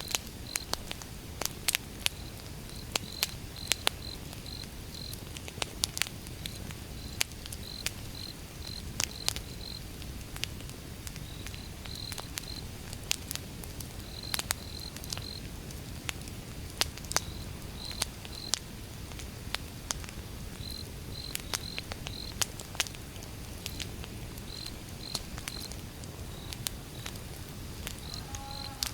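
Burning firewood crackling, with irregular sharp pops over a steady low rumble. Crickets chirp throughout in short groups of two or three high chirps.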